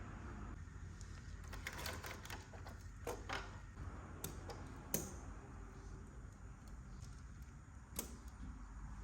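Scattered light clicks and taps, about half a dozen, over a faint low hum.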